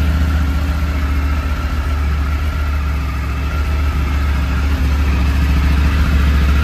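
Triumph Tiger 900's three-cylinder engine idling steadily.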